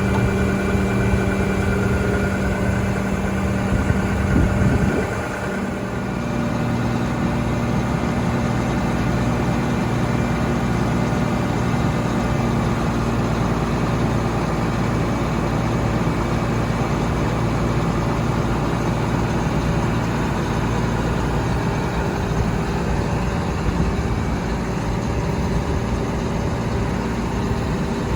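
Combine harvester engine running steadily at idle; its pitch shifts slightly about five seconds in, then holds steady.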